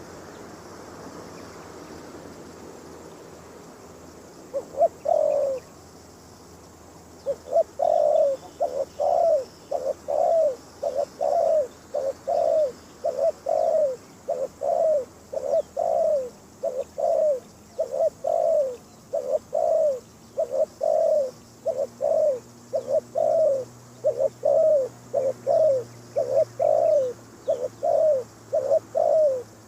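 Spotted dove cooing. The bird is a decoy whose call is used to lure wild doves. After a quiet start there is a short call about five seconds in, then from about seven seconds a fast, even string of short coos, a little more than one a second.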